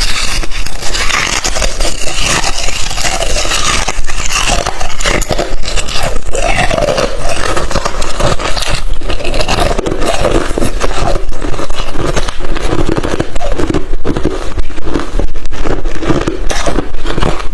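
Crushed, refrozen ice chips being chewed close to the microphone: a loud, dense run of crunches and crackles.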